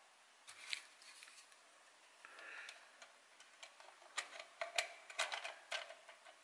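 Hollow plastic toy pieces being handled and a leg pressed into a toy cow's hip socket: a string of light, irregular clicks and taps, with a brief rubbing scrape about two and a half seconds in.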